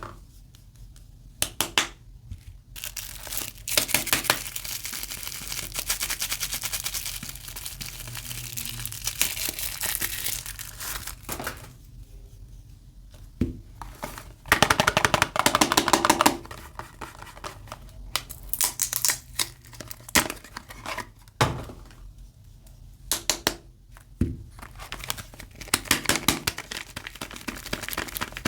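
Soap bar wrapping crinkling and tearing as it is unwrapped by hand, in irregular bursts with a louder, longer stretch about halfway through and a few sharp taps later on.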